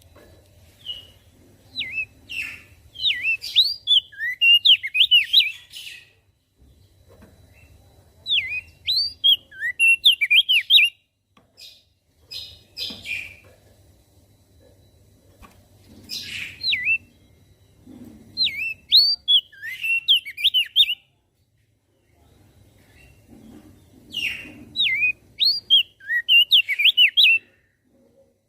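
Opior jambul (crested dark-eye) singing: bouts of rapid, looping chirps and whistles, each a few seconds long and separated by short pauses, over a faint low hum.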